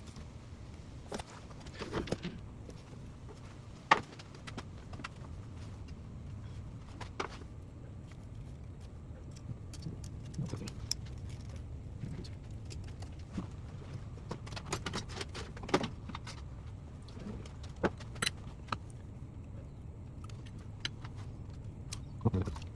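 Scattered metallic clinks and knocks of hand tools and parts being worked on in a car's engine bay, over a low steady rumble.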